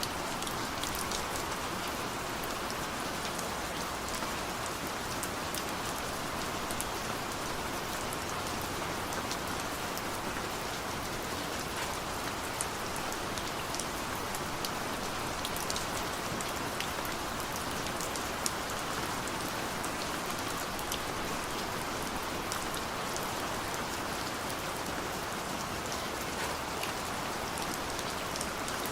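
Steady rain falling, an even hiss with individual drops ticking sharply on a surface.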